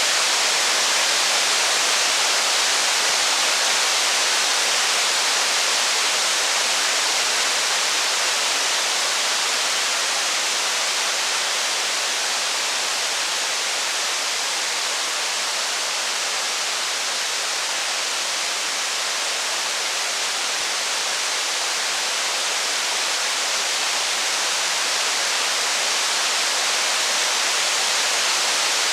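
Steady heavy rain on a wooden cabin: an even, unbroken hiss that holds level throughout.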